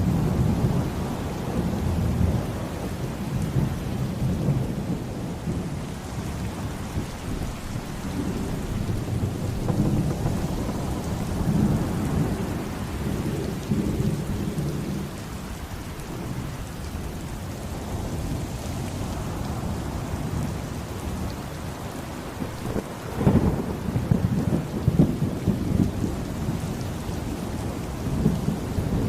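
Rain pouring steadily under rolling thunder, the deep rumbling swelling and fading in waves, with a sharper, louder thunderclap about three-quarters of the way through.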